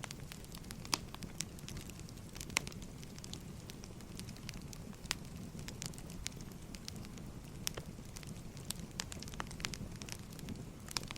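Wood fire burning: firewood crackling with irregular sharp pops over a steady low rumble of flame.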